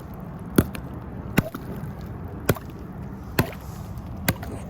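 Frozen lake ice being struck over and over, five sharp knocks about a second apart, as someone tries to break through; the ice is thick and hard.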